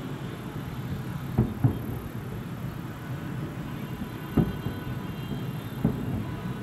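Aerial firework shells bursting with dull booms: two in quick succession, then two more a few seconds apart, over a steady low rumble.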